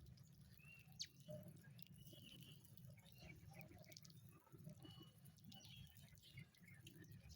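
Faint, scattered soft bird chirps: short high notes and quick clicks every second or so, over a low steady hum.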